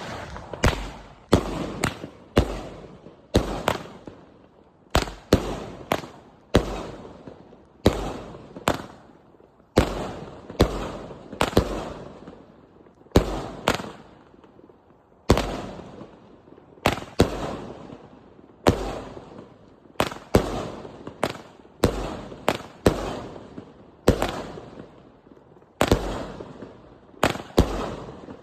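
200-gram consumer firework cake firing shot after shot: sharp bangs at an uneven pace of about one to two a second, each trailing off in a short echo.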